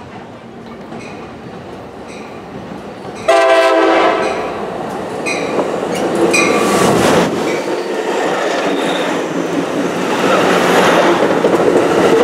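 A train sounds a short horn blast about three seconds in, the loudest thing here. A few spaced ringing strokes come before it. Afterwards the rumble and wheel clatter of the train build as it rolls along the tracks.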